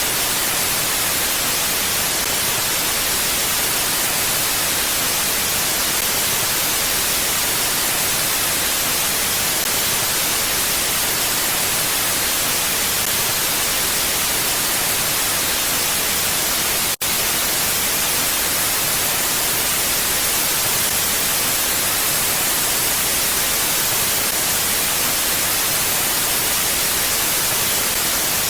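Steady, even hiss of wind, bright and without gusts or rumble, with one momentary break about two-thirds of the way through.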